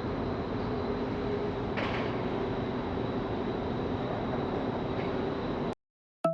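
Ferry engine rumble with a steady hum on board the boat, and a brief hiss about two seconds in. It cuts off suddenly near the end.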